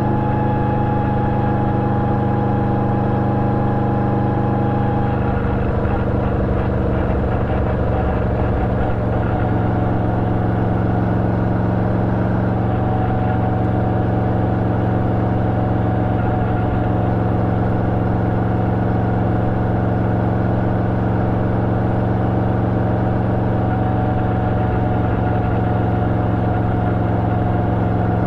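Yamaha Vmax 1700's V4 engine running steadily through an Akrapovič exhaust fitted with a dB-killer. The engine note changes briefly about six to nine seconds in, then holds steady again.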